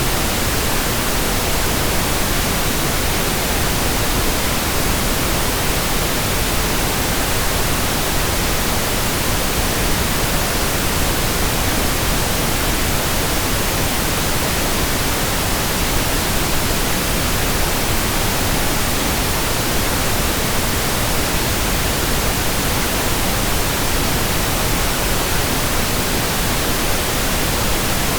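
Steady pink noise: an even, unbroken hiss spread across the whole range from deep rumble to high treble, with no changes.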